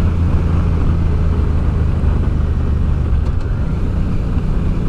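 Honda Deauville's V-twin engine running steadily as the motorcycle rides down a mountain pass, with a rushing noise over it; the engine note shifts slightly about three and a half seconds in.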